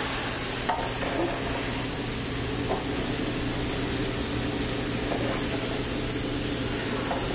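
Food frying in a hot sauté pan over a gas burner and on a flat-top griddle: a steady sizzling hiss.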